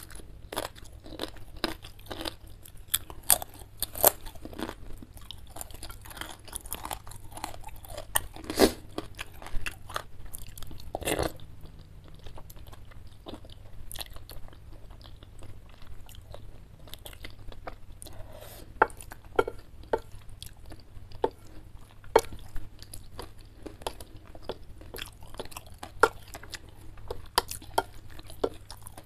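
Close-up eating sounds: crisp crunching and chewing of a fried wonton chip, dense for roughly the first ten seconds, then softer chewing of noodles with scattered sharp clicks.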